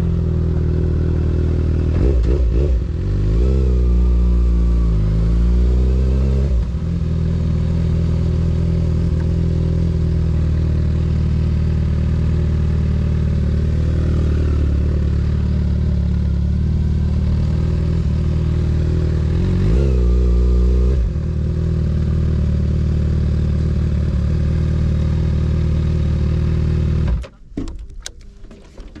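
2024 Kawasaki ZX-6R 636's inline-four through a Graves exhaust, running on the move; the revs swing up and down a few seconds in and again about twenty seconds in, holding steady between. The engine sound cuts off suddenly near the end.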